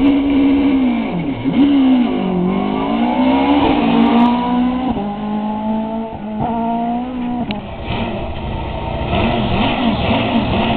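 Car engine accelerating under load: its pitch dips, then climbs steadily for a few seconds and drops at gear changes about five seconds in and again shortly after. Near the end the engine note wavers up and down repeatedly.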